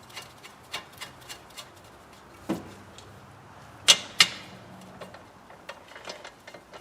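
Light metallic clicks and taps of bolts and hand tools being handled while wheel-bearing mounting bolts are threaded in, with a knock about two and a half seconds in and two sharp metal clinks, a third of a second apart, about four seconds in.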